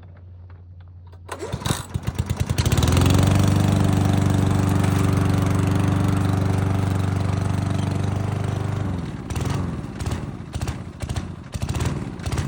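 Toro commercial lawn mower's single-cylinder Honda GXV160 engine pull-started, catching after a second or so of sputtering and then running steadily at speed. Near the end it turns uneven and choppy.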